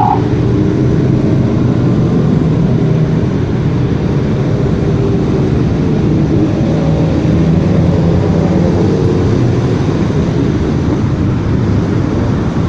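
Motorcycle engines running during a group ride: a loud, steady rumble, with the engine pitch wavering a little around the middle.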